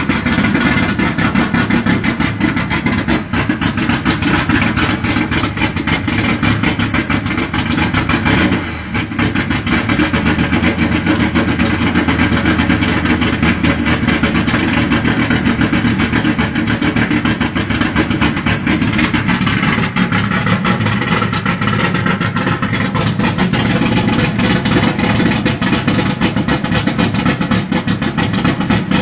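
Chevrolet 400 engine running loudly at idle, with a brief dip in the sound about nine seconds in.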